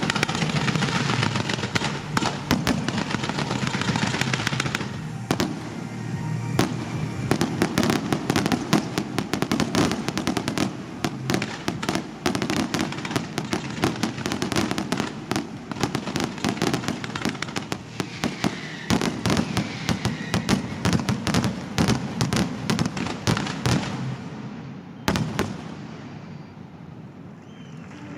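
Pyromusical fireworks display: a dense barrage of crackling and rapid bangs, heaviest in the first five seconds, thinning to scattered pops near the end, with music playing underneath.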